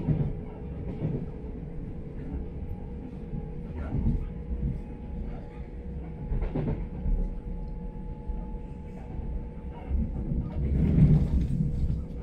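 Steady rumble of a moving passenger train heard from inside the coach, with a faint steady hum and wheels knocking over rail joints and points several times, loudest about eleven seconds in.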